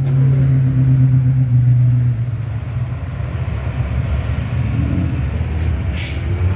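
A large vehicle's engine running steadily; its note drops lower about two seconds in. A short hiss comes near the end.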